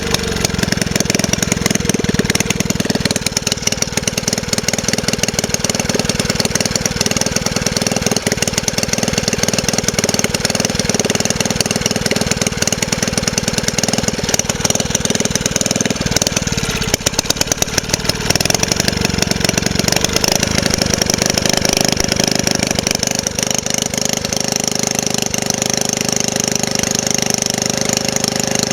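An engine running continuously with a rapid pulsing beat. About three-quarters of the way through it settles into a steadier, more even note.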